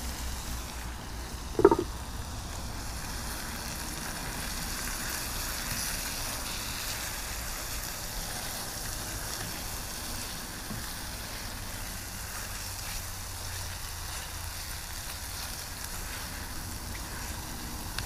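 Chicken and red curry paste sizzling steadily in a covered skillet over turned-down heat, a soft even hiss over a low rumble. There is one brief sharp sound about two seconds in.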